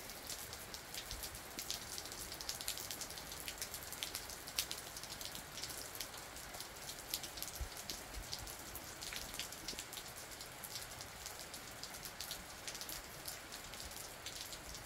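Soft, steady spring rain falling, with many separate drops hitting close by as sharp ticks over an even hiss.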